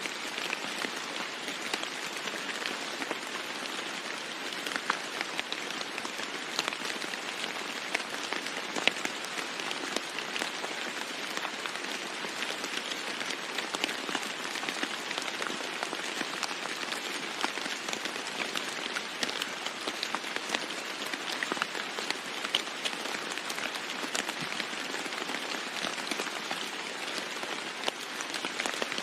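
Steady rain falling on a roof, with many separate drops heard as sharp ticks over an even hiss.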